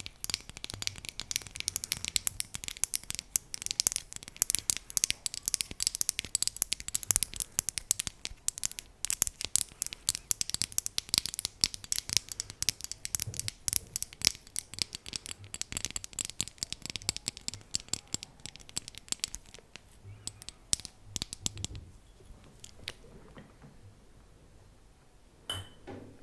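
ASMR tapping: rapid, dense, crisp tapping and scratching on a hard object, thinning out about twenty seconds in and dying away, with one short ringing clink near the end.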